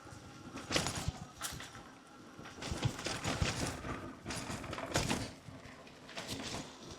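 Electric bicycle rattling and knocking as it is ridden over a rough road, in irregular surges.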